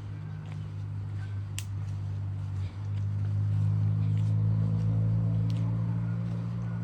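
A low, steady engine-like hum that grows louder a little under three seconds in, with a few faint sharp clicks over it.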